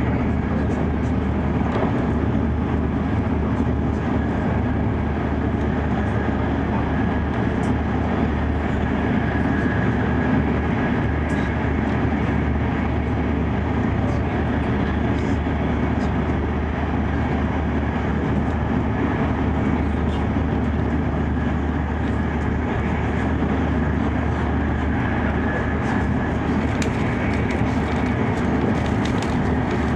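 E5 series Shinkansen running steadily, heard from inside the passenger cabin: an even low rumble with a rushing hiss from wheels, track and air.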